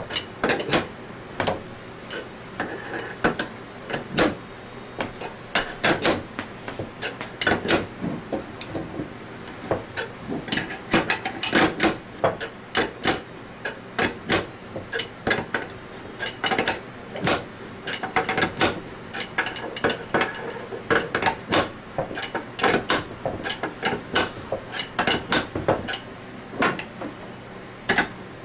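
Irregular metal-on-metal taps, clicks and clinks from hand tools as a needle bearing is worked into its bore during reassembly of an Anest Iwata ISP250 scroll vacuum pump.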